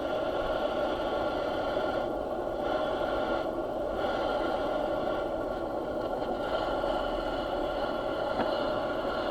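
A machine running steadily: an even hum with several steady tones, holding the same level throughout.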